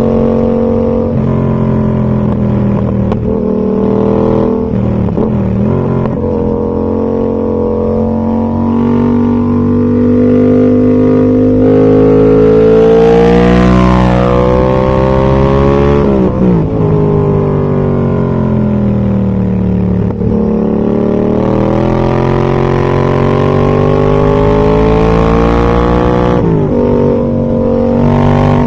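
2019 Yamaha MT-07's 689 cc parallel-twin engine through a Zard full exhaust system, under way on the road. The revs climb steadily to a peak about halfway, fall away sharply, then build again and drop near the end.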